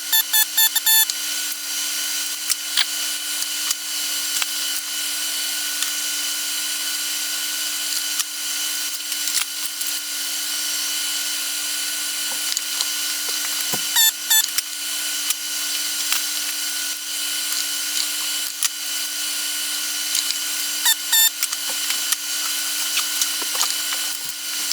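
Small hand tools working on a turntable circuit board during capacitor replacement: scattered clicks and taps over a steady hum and hiss, with two short runs of rapid, even ticking, one about midway and one near the end.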